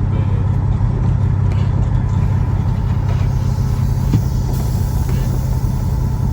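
Semi-truck's diesel engine running steadily, a low even drone.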